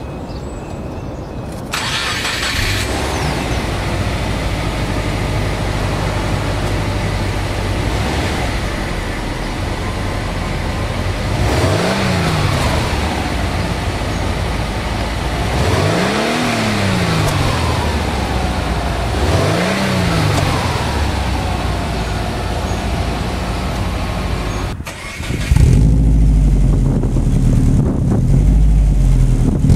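Subaru WRX turbocharged flat-four idling, revved briefly three times about four seconds apart, each rev rising and falling in pitch. After a sudden cut it idles louder and deeper, the rumble of the catless dual exhaust with divorced wastegate downpipe, against the quieter stock exhaust before.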